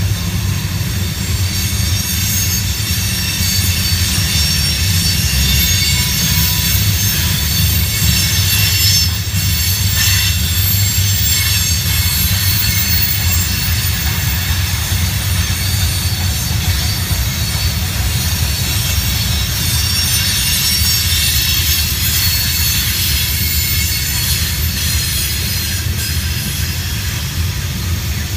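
Freight cars of a Norfolk Southern train rolling past on the sharp Horseshoe Curve. There is a steady low rumble of wheels on rail, and a continuous high-pitched squeal from the wheel flanges grinding through the curve.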